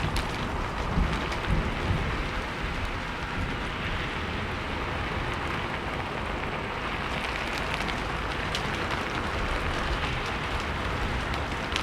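Steady rain falling, with scattered drops ticking on a surface and a low rumble underneath.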